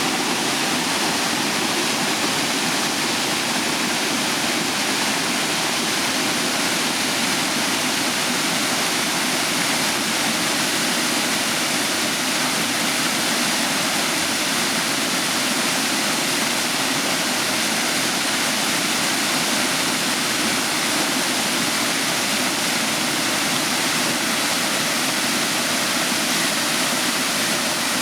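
Waterfall pouring steadily: a constant, even rush of falling water with no change.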